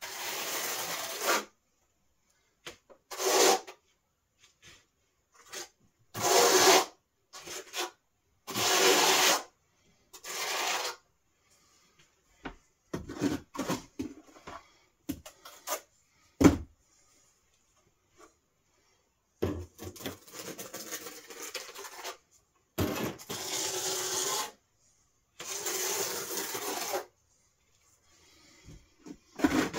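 Rough rasping, rubbing strokes, each about a second long, with short pauses between them.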